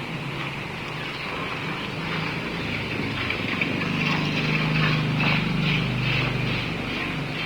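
A passing engine: a low hum that swells over a few seconds, peaks a little past the middle, then fades. It sits over a steady hiss, most likely falling rain.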